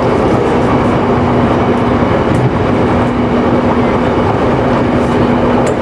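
Electric local train running along the line, heard from the front of the car: a steady rumble of wheels on rail with an even hum, and a few faint clicks.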